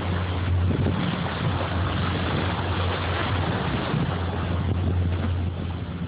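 Boat engine running at a steady low hum while under way, with wind buffeting the microphone and water noise over it.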